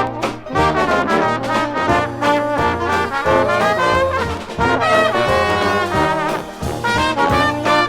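Dixieland jazz band playing, with trumpet and trombone lines over a steady bass line, played back from a vinyl LP.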